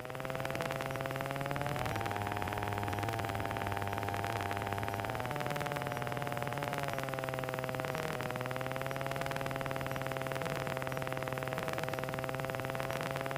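Gyroplane engine and propeller drone heard through the headset intercom, a steady hum with several tones. The pitch rises slightly about two seconds in and settles lower around seven to eight seconds in, as the power is adjusted on the crosswind landing.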